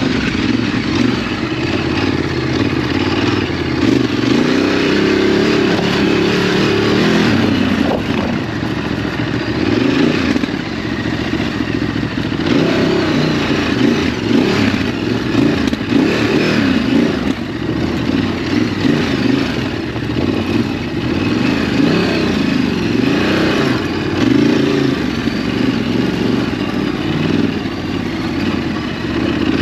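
Ducati DesertX's 937 cc L-twin engine running on a dirt track, its revs rising and falling with the throttle, with a few short knocks from the ride.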